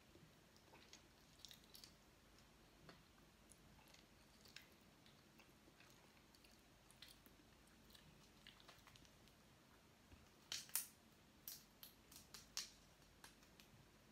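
A person eating seafood: faint chewing with scattered small clicks, and a run of sharper, louder clicks about ten to twelve seconds in.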